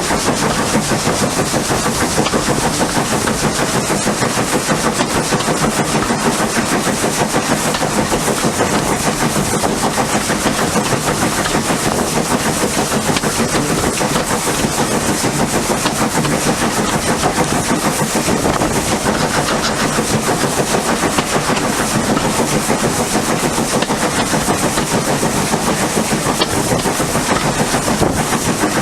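Steam tank locomotive working hard, its exhaust beating in a rapid, even stream of chuffs that keeps up throughout.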